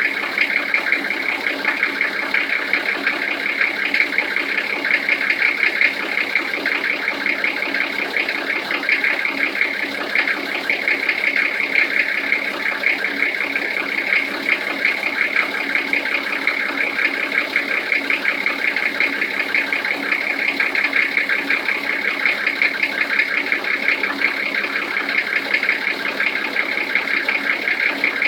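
Toyota 1HZ 4.2-litre straight-six diesel engine idling cold with a steady, rapid knocking clatter: the cold-engine knock.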